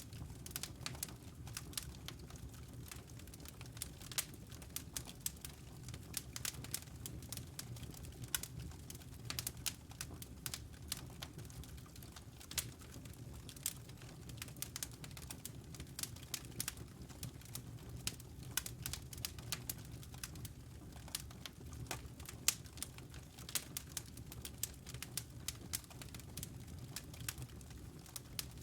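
Wood fire burning in a fireplace, crackling and popping irregularly over a low, steady rumble.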